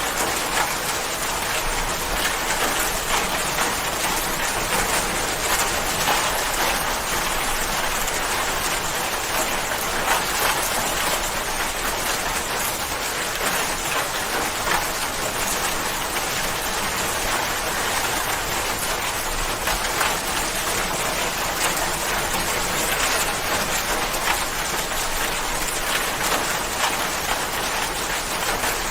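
Steady rain, an even hiss with the fine patter of many drops landing on a surface.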